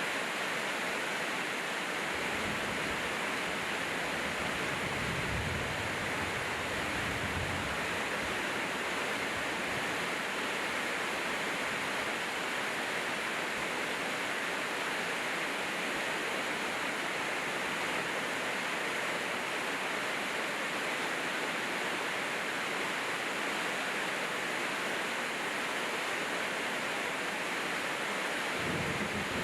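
Steady heavy rain, an even unbroken hiss, with a few faint low rumbles early on and again near the end.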